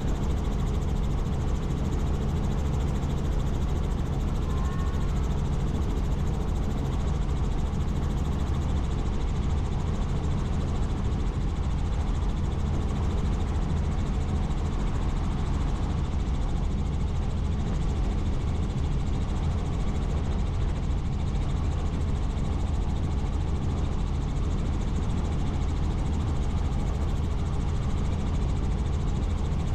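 Helicopter in flight: a steady, unchanging drone of engine and rotor.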